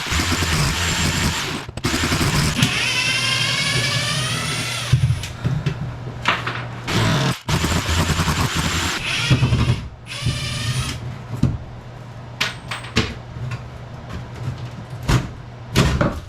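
Power drill driving screws out of cement board in bursts, its whine rising as the motor speeds up. After about ten seconds the drilling gives way to scattered clicks and knocks.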